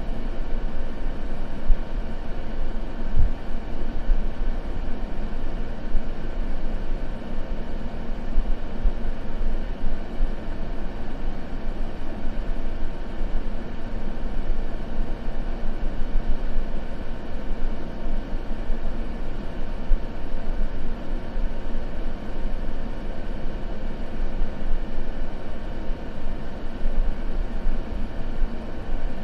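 Continuous white noise for sleep: a steady, unchanging hiss that is heaviest in the low end.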